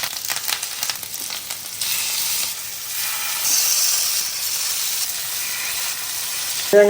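Masala-marinated fish frying in hot coconut oil with ginger, garlic and curry leaves, sizzling and crackling in the pan. The crackling is densest for about the first two seconds, then settles into a steady sizzle.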